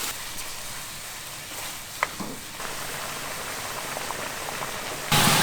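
Food frying in a hot pot with a steady sizzling hiss. There is a sharp click about two seconds in, and a sudden, louder burst of sizzling near the end.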